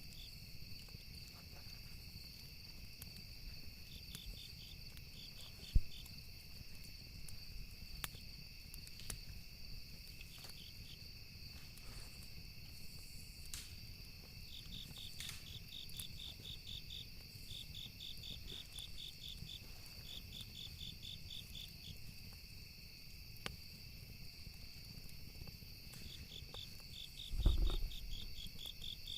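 Night ambience of crickets chirping in trains of rapid pulses over a steady insect drone, with scattered sharp crackles of burning wood from a campfire. A low thud comes near the end.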